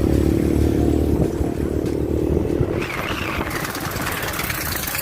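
Motorcycle engine running steadily under way, with road and wind noise. A bit under three seconds in the engine note drops away and a rushing hiss takes over.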